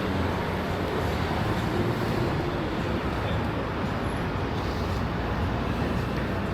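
Steady outdoor city background noise with the low running rumble of a vehicle engine.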